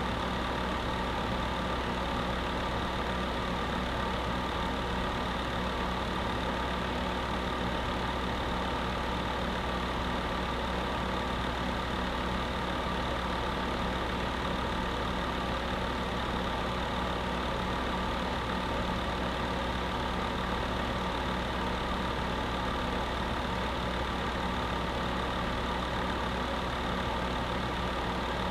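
Space heater running steadily: an even whir with a constant hum and no changes.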